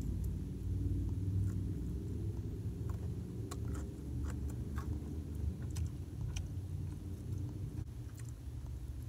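Someone chewing a sauced chicken wing, with faint wet mouth clicks, over the low steady rumble of a car's cabin.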